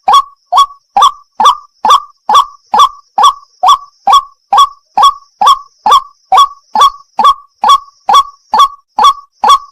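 White-breasted waterhen (wak wak) calling: a loud, short note repeated evenly, about two and a half times a second.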